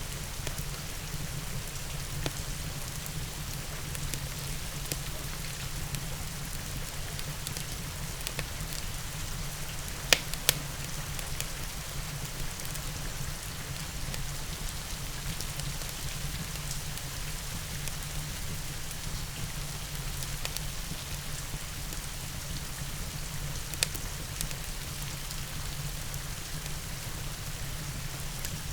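Steady rain falling, mixed with a low steady rumble and a few sharp crackles of a fireplace: two close together about ten seconds in and one more later.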